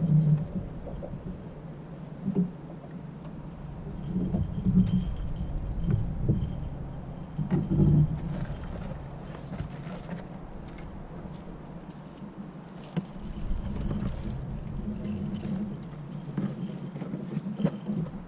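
Irregular light rattling and clinking with a few knocks, as gear is handled, over a constant low hum.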